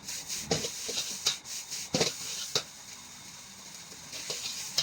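A metal spatula knocking and scraping in a wok, a few sharp strikes over a steady sizzling hiss of rice frying.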